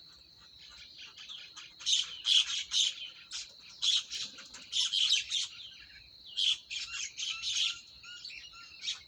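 Bird calls: bunches of quick, short, high chirps and squawks, over a faint steady high tone.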